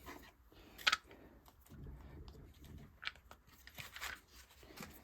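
Handling noise as the air-filter parts of a two-stroke hedge trimmer are fitted back by hand: a few sharp plastic clicks, the loudest about a second in, with soft rustling and crinkling between them.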